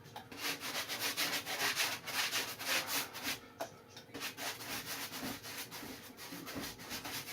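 A paintbrush scrubbing wet glue onto a surfboard deck in quick back-and-forth strokes, several a second.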